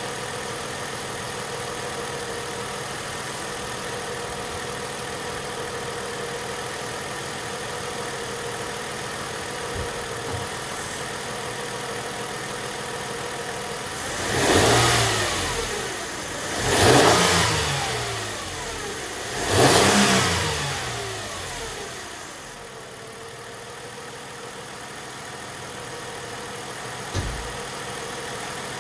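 2001 Mercedes-Benz ML320's 3.2-litre V6 idling while warming up from a cold start, revved three times about halfway through, each rev climbing and falling back to idle. One sharp click near the end.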